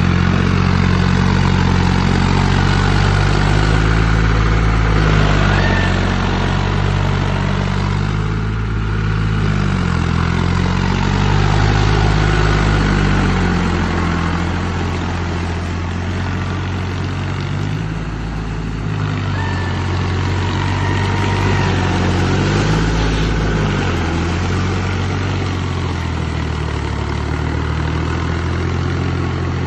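Tractor engine running under load while ploughing a paddy field, its pitch dropping and recovering every few seconds.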